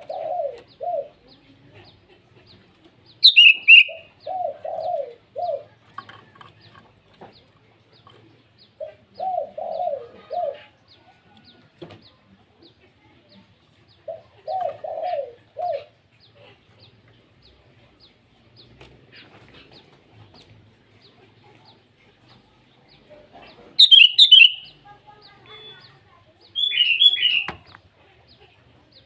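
Sooty-headed bulbuls (kutilang) giving short, loud, bright calls, once about three seconds in and again several times near the end, calling to rivals. Between them a lower-pitched three- to four-note phrase from another bird repeats about every five seconds.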